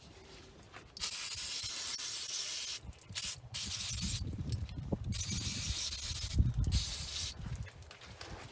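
Pressurized spray hissing in two long bursts with a short break between, cleaning the fuel sediment bowl and screen of the tractor's service pump, with low bumps of handling during the second burst.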